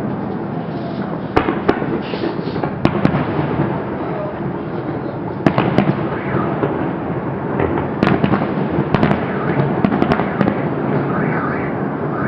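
Fireworks salute going off: a continuous rumble of bursts with sharp, loud bangs several times, the strongest about five and a half seconds in and again around eight to ten seconds.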